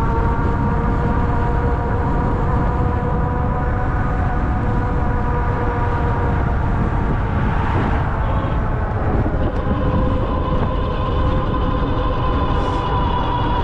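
Ariel Rider Grizzly e-bike's electric hub motor running at speed, a steady whine whose pitch drifts slowly with speed, over heavy low rumble of wind on the microphone and fat tyres on the road. A brief rush of noise comes about eight seconds in.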